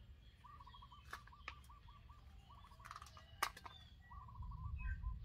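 A bird calling in three runs of quick, looping warbled notes, with a few sharp clicks from hands working in the bed, the loudest about three and a half seconds in. A low rumble swells near the end.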